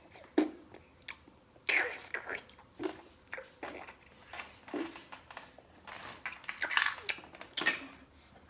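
Chewing and biting food close to the microphone: irregular crunches and wet mouth sounds.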